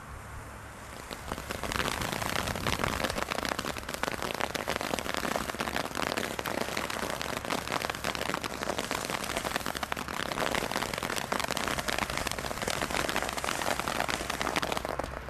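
A garden firework burning with a dense, continuous crackle. It starts about a second and a half in, holds steady, and cuts off shortly before the end.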